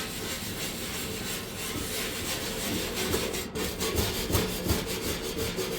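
Scrubbing a grimy surface: a dense rasping rub made of irregular strokes.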